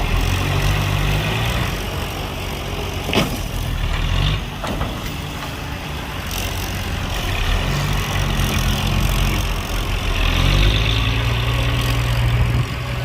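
Heavy diesel engine of earthmoving machinery running, stepping up in pitch twice as it takes load. A sharp knock comes about three seconds in and another a second and a half later.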